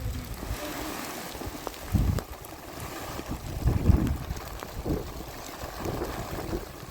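Wind buffeting the microphone in irregular gusts, over a steady hiss of heavy rain.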